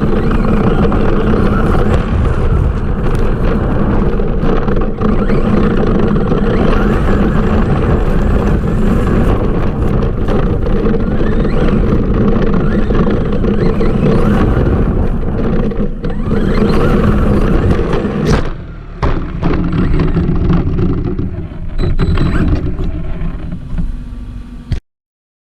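An Arrma RC monster truck running hard: a loud, continuous rush of its electric motor, drivetrain and tyres over the ground, with a steady hum underneath. About 18 seconds in the sound turns choppier and more broken, and near the end it cuts off abruptly for a moment.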